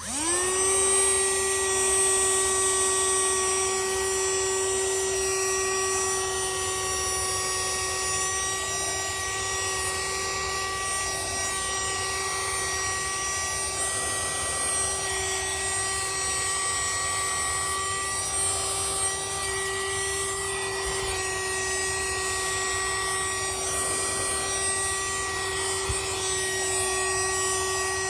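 Handheld vacuum cleaner's small motor spinning up quickly to a steady high whine over a rush of air, then running on evenly without a break.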